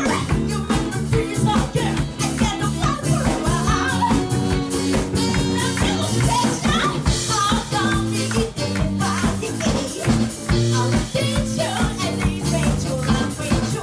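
A live rock band playing an up-tempo song, with drums keeping an even beat under bass and guitar.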